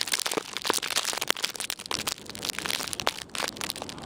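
Dense, irregular crunching and crackling of snow, as from footsteps through deep snow.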